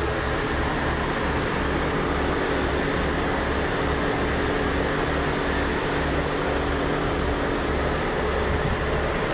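Air-conditioning equipment running steadily: a machine hum with fan noise, a few steady tones and a low throb that pulses evenly.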